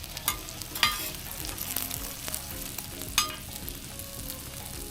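Roti frying in oil and margarine on a flat pan, sizzling steadily, with a few sharp metallic clicks from a spatula against the pan.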